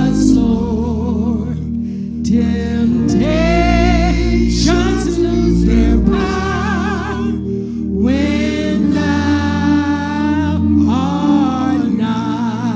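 Gospel singing with a wide vibrato over sustained accompaniment chords, in long held phrases with short breaks between them.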